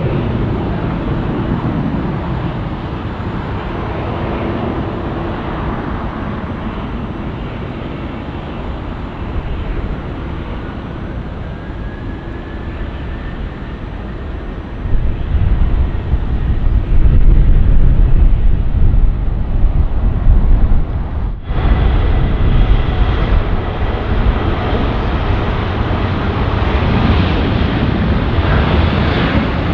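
Jet airliner engines at an airport, a broad rumble that swells much louder and deeper about halfway through. It is then cut off abruptly and replaced by a steadier engine sound with a thin high whine.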